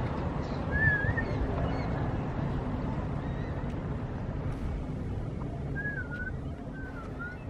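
Short, wavering whistled bird calls, once about a second in and a few more in the last two seconds, over a steady low rumble of outdoor background noise.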